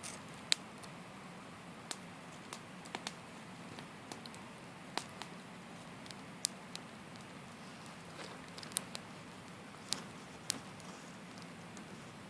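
Wood campfire burning with irregular sharp crackles and pops, one or two a second, over a soft steady hiss of the flames.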